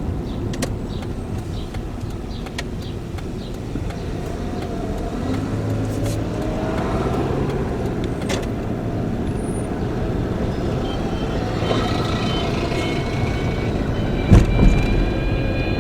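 Steady motor-vehicle noise, a continuous low rumble like a car running, with one brief thump about fourteen seconds in.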